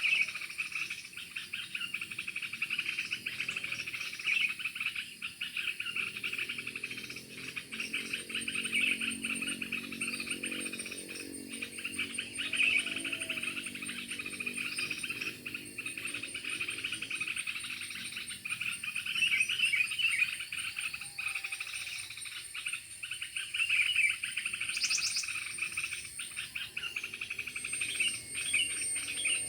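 Dense chorus of calling frogs and insects, a rapid pulsing trill without pause, with a few bird chirps over it.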